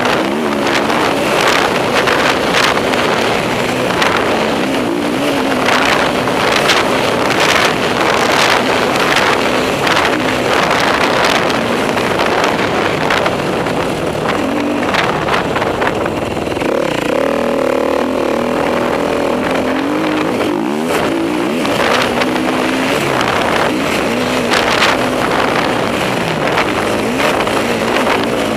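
Enduro motorcycle engine ridden hard around a motocross track, its pitch repeatedly rising and falling as the rider works the throttle through the gears. Near the middle the engine holds a steadier, higher pitch for a few seconds.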